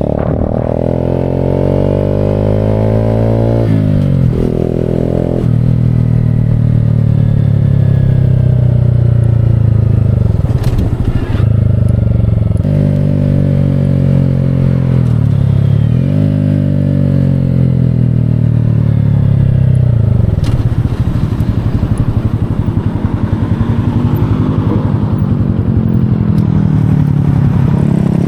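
Motorcycle engine accelerating through the gears: the pitch climbs and then drops sharply at each shift, four times in the first half, then runs fairly steady at cruising speed.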